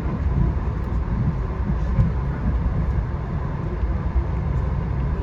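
Steady low rumble of a VIA Rail passenger train, heard from on board.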